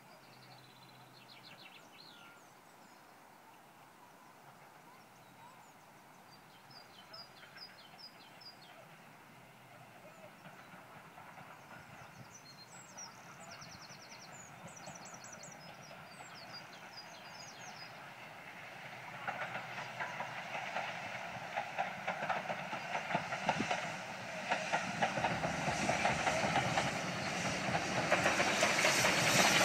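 Steam locomotive LMS 12322, an ex-Lancashire & Yorkshire 0-6-0, approaching: its rhythmic working and wheel noise grow steadily louder from about two-thirds of the way in. Birds chirp before it arrives.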